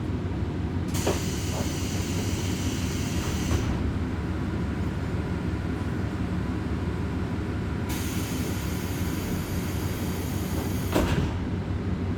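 Running sound inside a Kominato Railway diesel railcar: a steady low rumble, joined twice by a spell of high hiss lasting about three seconds, the first about a second in and the second about eight seconds in.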